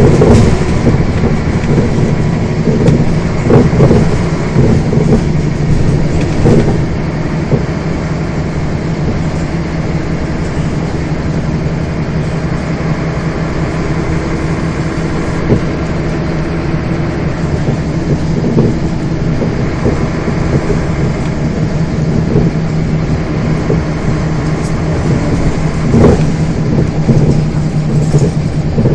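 Scania bus under way, heard from inside the bus: a steady engine drone with rattles and knocks from the body, busiest in the first seven seconds and again about 26 seconds in.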